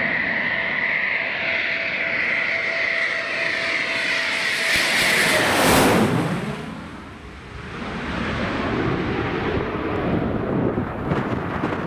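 Eurofighter Typhoon jet passing close by, with its engine whine rising to a peak about six seconds in. The pitch falls sharply as it goes past, and then the rougher exhaust roar carries on behind it.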